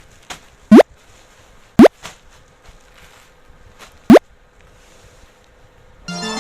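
Three short, loud rising-pitch 'bloop' pop sound effects, with faint clicks between them. Music starts just before the end.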